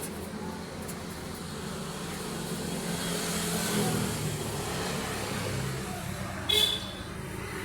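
A motor vehicle going by, its low engine rumble swelling to a peak about halfway and then easing off. A single brief high squeak comes near the end.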